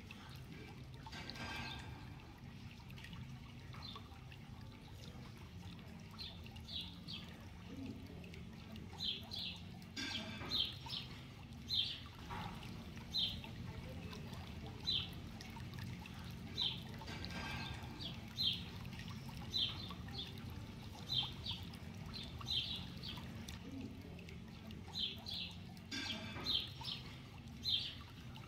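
A small bird chirping: short high chirps every second or two, often in pairs, over a faint trickle of water and a low steady hum.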